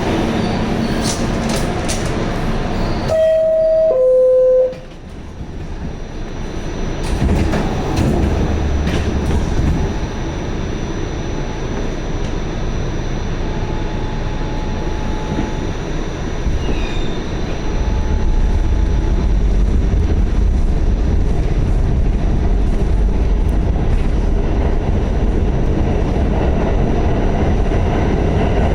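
A Pullman-Standard R46 subway car's two-tone door chime, a higher note then a lower one, about three seconds in. The train then pulls away, its running noise building to a steady low rumble.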